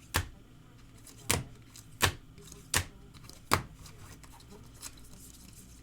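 A series of sharp taps, five strong ones less than a second apart and then only faint ones: trading cards being set down on a table one by one as the autographed cards are counted.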